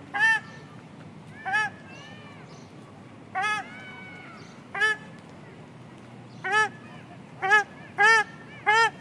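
Waterfowl calling: about eight short, loud, clear honking calls that rise and fall in pitch, spaced irregularly. Fainter, longer calls come between them in the middle.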